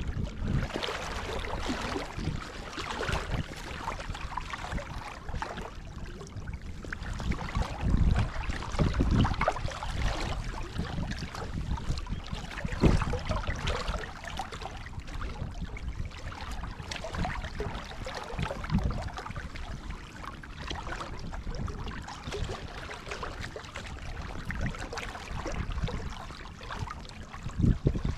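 Strong wind buffeting the microphone in irregular gusts, with water sloshing underneath.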